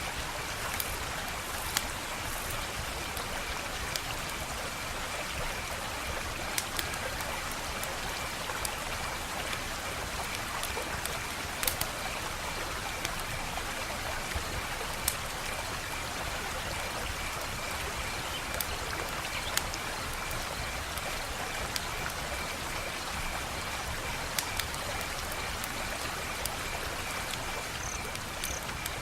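Wood fire crackling: a steady hiss broken by scattered sharp pops and snaps, a few of them louder.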